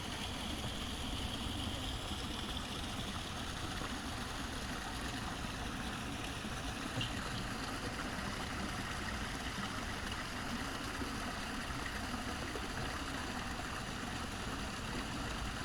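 Steady rush of running water feeding a garden koi pond, with a low rumble underneath.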